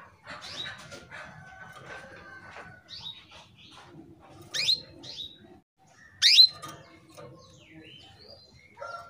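Female canary in breeding condition calling to a male: short, sharp, rapidly rising call notes. The loudest come about half a second, four and a half and six seconds in, with softer calls between.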